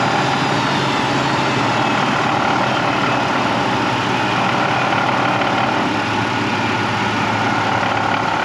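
GM 3.7 L inline-five engine running just after a cold start, with a steady whining tone over the engine sound. The noise comes from the serpentine belt area: a stretched, weather-cracked serpentine belt jumping and dragging over the tensioner while the engine is cold.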